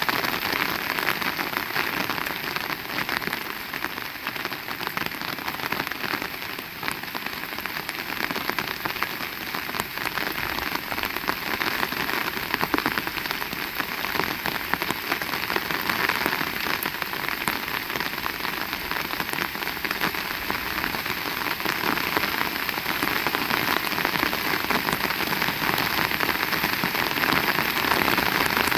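Heavy rain falling steadily, a dense hiss of drops striking surfaces with fine crackling patter, growing a little louder near the end.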